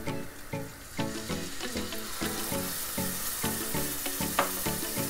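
Food frying in a pan with a steady sizzling hiss that grows louder about two seconds in, under background music with a plucked-sounding melody. A short sharp sound stands out near the end.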